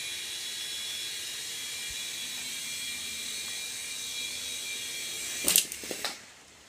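Small toy helicopter's electric motor and rotors whirring with a steady high whine. About five and a half seconds in come a few sharp clatters as it crashes, and the whine dies away.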